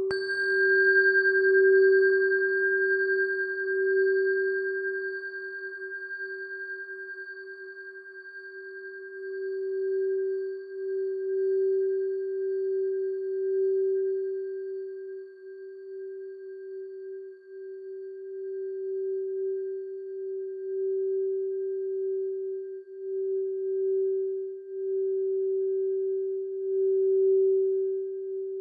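Singing bowl tuned to G, struck once at the start and left ringing: a long, sustained tone that swells and fades in a slow, wavering pulse, its higher overtones dying away over the first several seconds.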